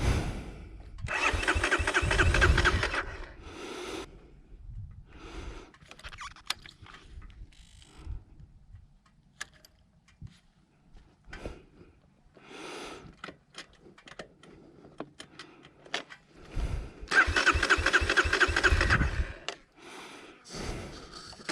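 Electric starter cranking a 2020 Kawasaki KLX230's single-cylinder engine in bursts of about two seconds, once early and once near the end, with light clicks and rattles between. The engine does not catch: the bike refuses to restart after going down in sand.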